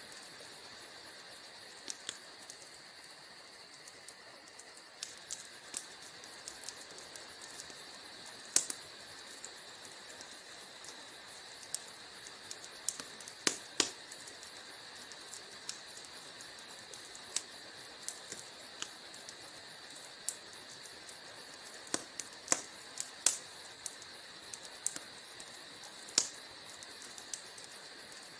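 Wood fire in a fireplace crackling: scattered sharp pops and snaps of burning wood, a few louder ones, over a steady high hiss.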